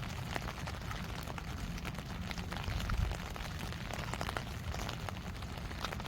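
Steady rain, with many separate drops tapping close by over a low rumble that swells briefly about halfway through.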